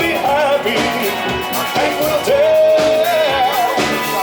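Live rock cover band playing, with a lead singer's voice over the band and a steady drum beat; the singer holds one long note about halfway through.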